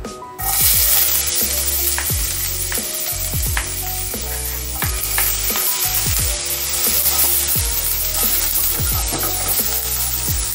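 Chopped shallots and garlic hitting hot oil in a nonstick wok and sizzling, the sizzle starting suddenly about half a second in and running on steadily as a spatula stirs them, its strokes clicking against the pan now and then.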